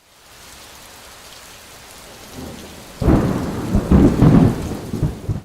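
Steady rain, joined about three seconds in by louder rolling thunder; the sound cuts off abruptly at the end.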